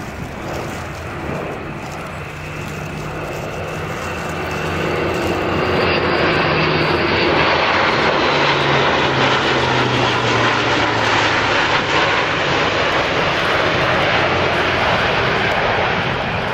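Airbus A400M's four Europrop TP400 turboprop engines as the aircraft flies past, the sound swelling over a few seconds, holding loud, then easing. The engine tone drops in pitch midway through as it passes.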